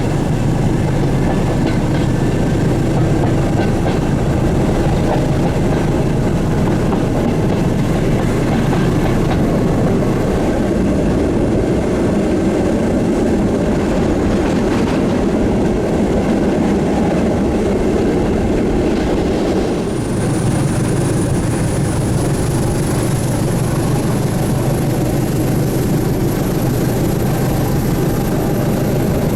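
A train running along the track: a steady loud rumble and rail noise. About two-thirds of the way in a thin high whine starts and slowly rises in pitch.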